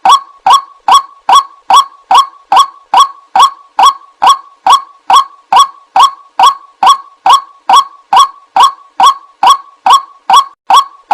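White-breasted waterhen calls played as a bird lure: one short honking 'ruak' note repeated at an even pace, about two and a half a second, loud and unvarying.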